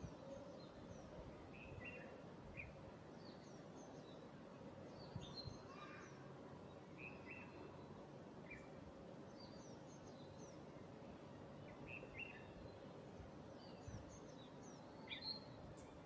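Faint wild bird calls: short high chirps in small clusters every second or two, over a steady low background hum.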